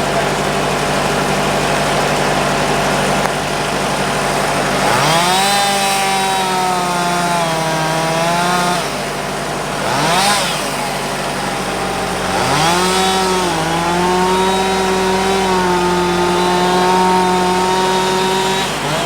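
Chainsaw revving up to high speed and holding there for about four seconds, then dropping back. It blips once briefly, then revs up again for about six more seconds. A steady engine idle runs underneath.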